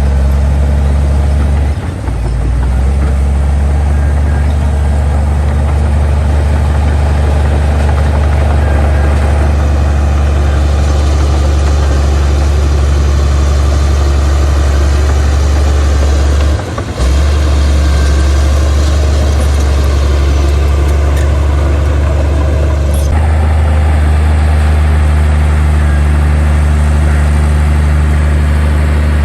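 Heavy diesel engine of earthmoving machinery running steadily under a deep low hum, with brief dips in level about two seconds and about seventeen seconds in. The tone shifts and the higher noise drops away about twenty-three seconds in.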